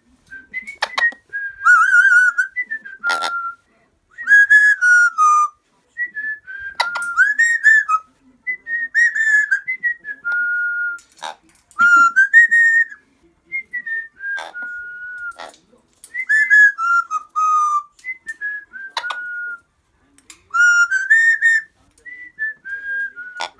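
Amazon parrot whistling a string of short phrases, its notes gliding up and down and wavering around one pitch, with pauses between phrases and a few sharp clicks in between.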